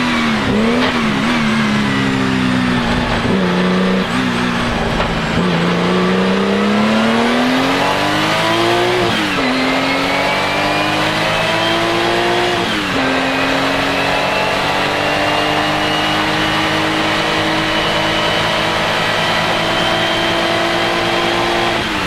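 Porsche 935 K3's turbocharged flat-six accelerating up through the gears, its pitch climbing and dropping at upshifts about 9 and 13 seconds in, then holding high and nearly steady. A thin turbo whistle rises along with the engine note.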